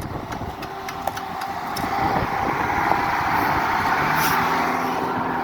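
Loader's engine running, growing louder about two seconds in, with a steady low hum coming in near the end.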